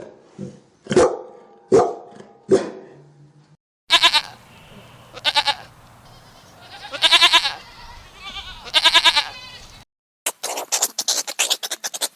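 A dog barks about four times, short and sharp. Then a goat bleats four times in long, wavering calls. The clip cuts off suddenly, and near the end a fast series of short, sharp sounds begins, several a second.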